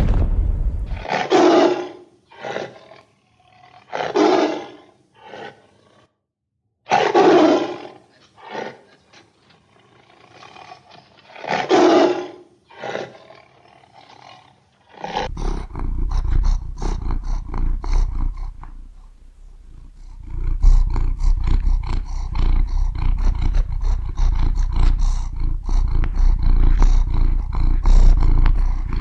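A large animal roaring in several loud, separate calls. About halfway through, the sound changes to a continuous low rumble with fast crackling over it.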